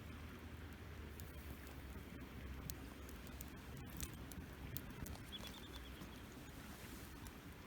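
Wood campfire burning, with scattered sharp crackles and pops over a low steady rush of flame, one pop louder about four seconds in.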